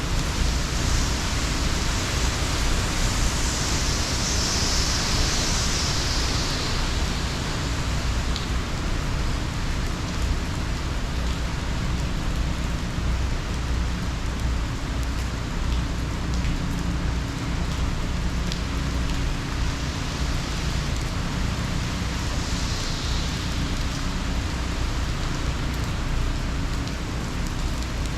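Hurricane rain and wind: a steady heavy hiss with a deep rumble underneath. The hiss swells about four seconds in and again a little after twenty seconds.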